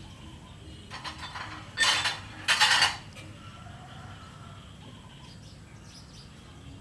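Two short clattering noises close together, about two seconds in, with a fainter one just before.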